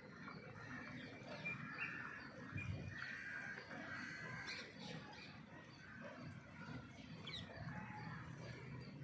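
Birds chirping, many short scattered calls, fairly faint, over a low rumble.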